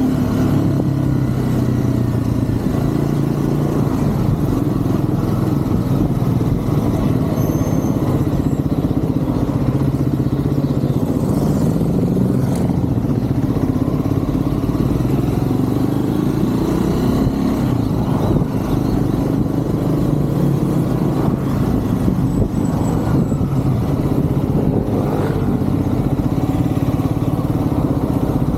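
Triumph Scrambler 400 X's single-cylinder engine running on the move in traffic, its pitch rising and falling several times with throttle and gear changes.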